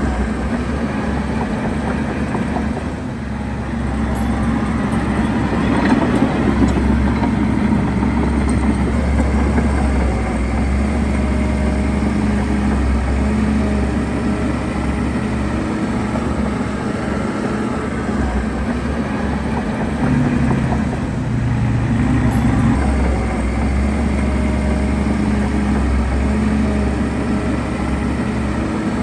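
Heavy diesel engine of a bulldozer running steadily, growing louder for several seconds twice.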